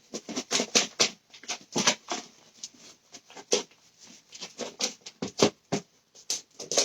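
Chicken pieces being shaken in seasoned batter mix to coat them: a run of irregular rustling and quick taps.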